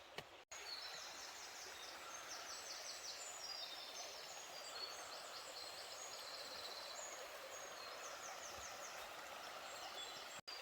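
Steady rush of river water with small birds singing over it in short, high, rapid trilled phrases, repeated many times.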